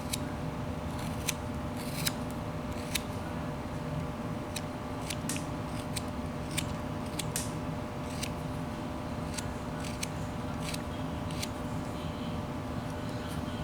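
Pocketknife blade taking small cuts in wood by hand: irregular crisp snicks, roughly one or two a second, as a small piece is shaved and rounded.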